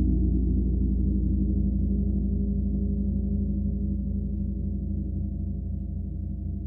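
Gong ringing on after a stroke: a deep, sustained hum of many low tones that wavers and slowly fades.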